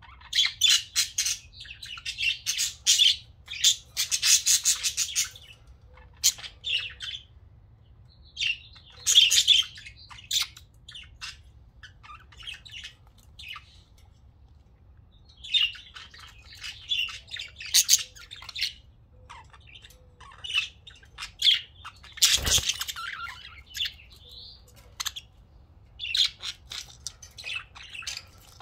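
Pet budgerigars chattering and chirping in quick, high bursts, with pauses between the flurries. A sharper, louder squawk or knock comes about twenty-two seconds in.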